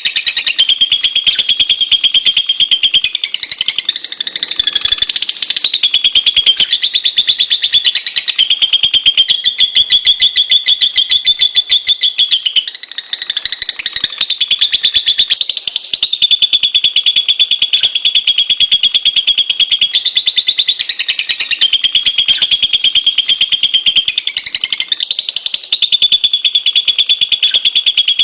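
Lovebird chattering without pause: a fast, shrill stream of high chirps, shifting a little in pitch now and then.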